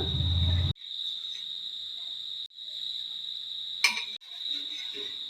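A cricket trilling steadily at a high pitch, cut off briefly three times, with a single short click about four seconds in.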